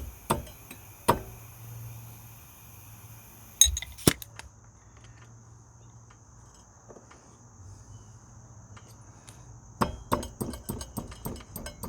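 Metal clinks and knocks of tools and parts being handled at a quad's rear axle and sprocket: a few single sharp knocks in the first seconds and around four seconds in, then a quick run of clicks near the end. Crickets trill steadily behind.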